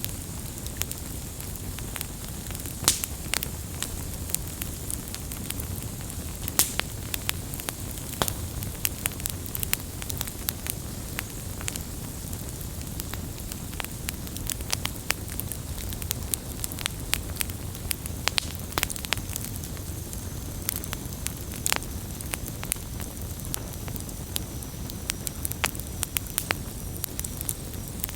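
Wood campfire burning, with irregular sharp crackles and pops over a steady low rumble of flame.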